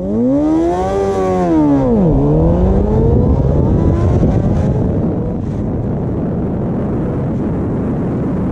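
Yamaha R6 inline-four sport bike accelerating hard: the engine note climbs, dips about two seconds in as it shifts up, and climbs again, then wind and road noise at speed take over.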